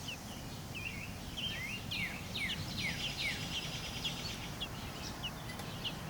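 Baby robin's begging chirps: short, high peeps sweeping downward, several a second, thickest through the middle, over a steady low hum.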